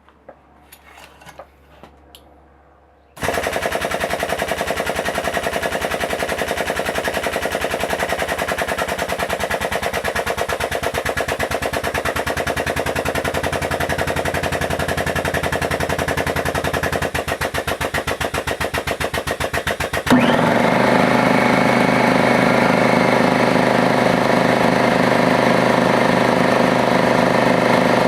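A few light handling clicks, then a powered tube bender's motor starts abruptly about three seconds in and runs with a rapid, even pulsing as it bends steel roll-cage tubing. About twenty seconds in the sound turns louder and steadier, with a clearer pitch.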